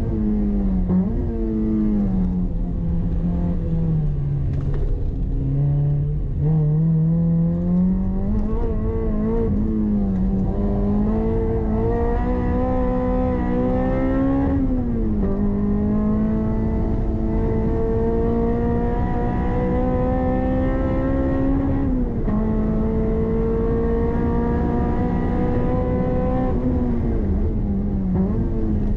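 Toyota MR-S's swapped-in 2ZZ-GE 1.8-litre four-cylinder engine, heard from inside the cabin while lapping a race track. Its revs dip and recover at first, then climb steadily and fall back sharply about halfway, again about three quarters through, and near the end.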